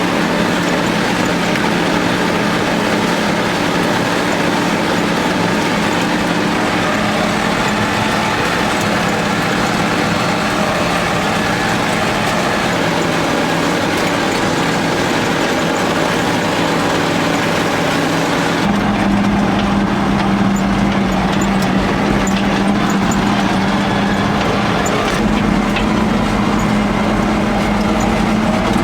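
ZIL-131 army truck's V8 petrol engine running steadily. About two-thirds of the way through the sound changes abruptly to a fuller, deeper rumble with its pitch a little higher, rising slightly near the end.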